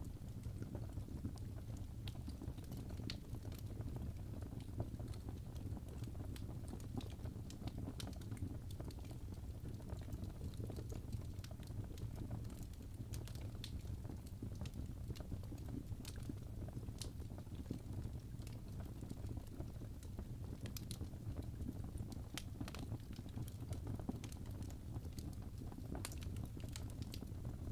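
Wood fire crackling: a steady low rumble with irregular sharp pops and snaps scattered throughout.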